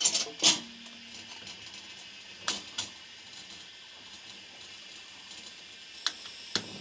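Several sharp clicks and knocks of gear being handled: a quick cluster at the start, two about two and a half seconds in, and two near the end, over a steady background hiss.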